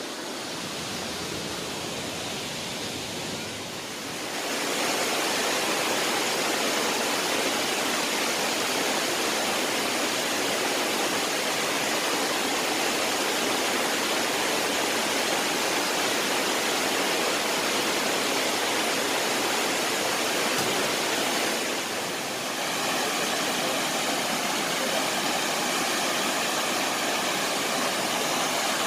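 Steady rushing roar of Shifen Waterfall's falling water, growing louder about four seconds in, with a brief dip a little past the middle.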